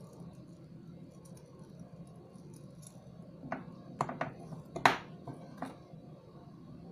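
Small hard beads and metal pliers being handled during beadwork: about half a dozen short, sharp clicks and taps in the second half, the loudest near five seconds in, over a steady low hum.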